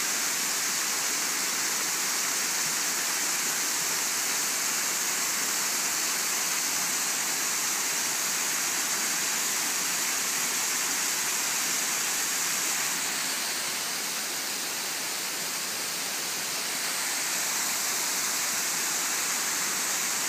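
Bigăr Waterfall's water pouring and splashing in a steady rush, easing slightly for a few seconds past the middle.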